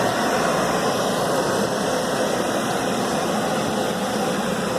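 Automatic car wash tunnel equipment running, heard from inside the car as a steady rushing noise.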